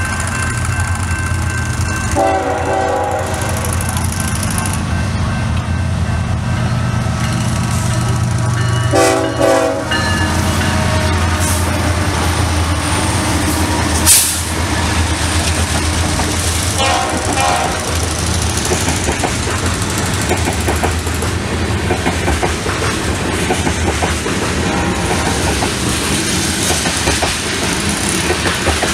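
Freight train passing close: diesel locomotives rumbling by, with a train air horn sounding about two seconds in, again around nine seconds, and briefly once more near seventeen seconds. A single sharp bang comes about midway. After the locomotives, loaded crude-oil tank cars roll past with their wheels clattering on the rails.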